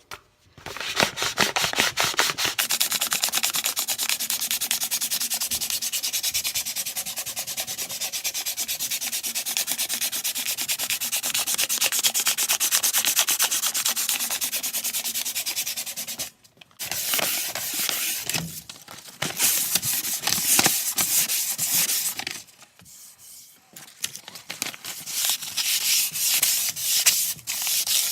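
Sandpaper rubbed rapidly back and forth along a solid oak axe handle in a long run of even strokes. It breaks off briefly about 16 seconds in and again near 23 seconds before the strokes resume.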